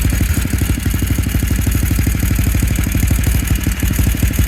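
Small gasoline snowblower engine idling steadily, with a fast, even chugging.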